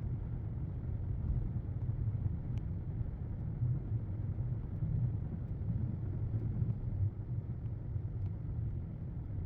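Car driving, a steady low road rumble.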